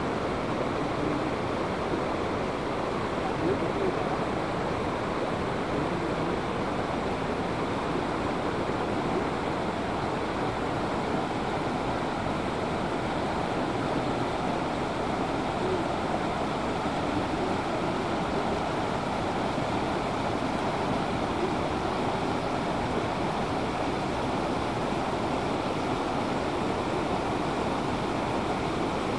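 Steady rush of fast-flowing water, an even unbroken roar.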